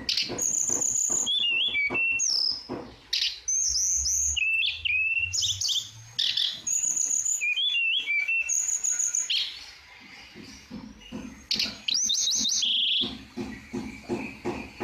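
Tledekan bird singing: repeated high whistled phrases with sweeping notes and quick trills, pausing briefly about ten seconds in.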